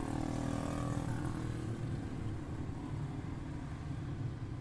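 Several quarter midget race cars' small single-cylinder Briggs & Stratton Animal engines running together in a race, a steady drone with pitches shifting as the cars go by.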